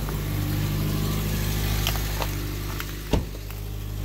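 A Mazda's engine idling steadily just after a cold start, having sat unused for a few days. A single short thump about three seconds in.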